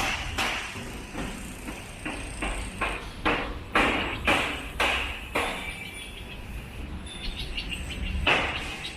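Footsteps walking at about two steps a second, pausing for a few seconds midway and starting again near the end, over a steady low rumble.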